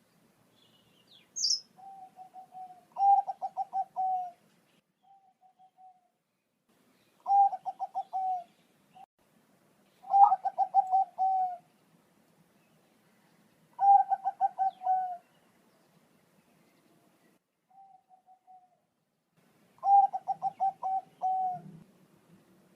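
Bangkok-type zebra dove (perkutut) cooing: phrases of rapid stuttering notes repeat every few seconds, with a few shorter, quieter phrases between them.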